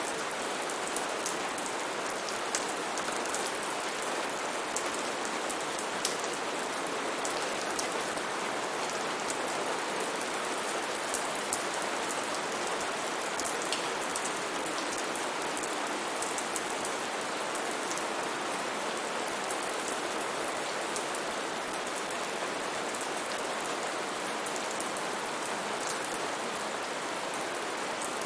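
Steady heavy rain with many close drops pattering and ticking on foliage.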